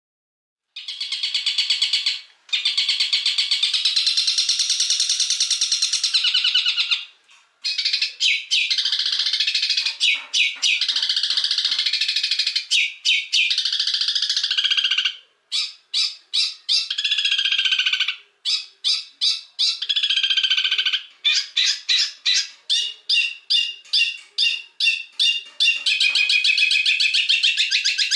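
Songbird masteran recording: a bird sings loud, sharp, harsh calls. Long unbroken rapid trills come in the first half, broken by brief pauses, then shorter rapid phrases repeat about twice a second.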